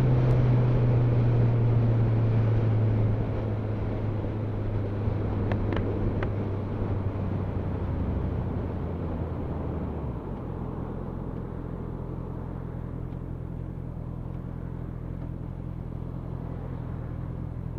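Motorcycle engine and road noise heard from the bike: a steady engine note that eases off after about three seconds and fades gradually as the bike slows, settling at about ten seconds into a quieter, even low hum.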